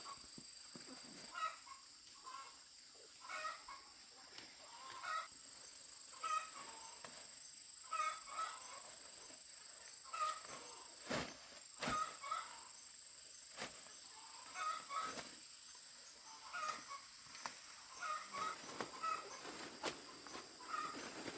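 Chickens clucking, short calls repeating irregularly about once a second, with a few sharp clicks and a steady high-pitched tone behind.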